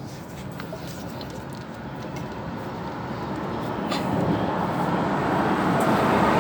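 A road vehicle approaching, its rumble and tyre noise growing steadily louder.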